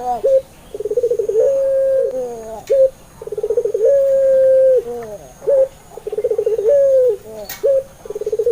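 Puter pelung (domestic ringneck dove) cooing in repeated phrases about every two and a half seconds. Each phrase opens with a fast rolling trill, swells into one long held coo that dips at the end, and is followed by a couple of short notes.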